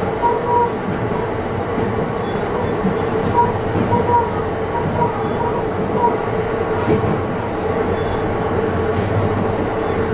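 Running noise inside an E531 series electric train car: a steady rumble of wheels on rail with a steady hum underneath.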